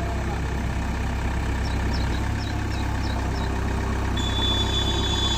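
Truck engine idling with a steady low rumble, with a few short high chirps over it. A steady high-pitched tone comes in near the end.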